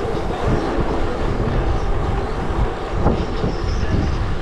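Wind buffeting the microphone over the rumble of a rolling bicycle, a loud, steady low roar with no clear rhythm.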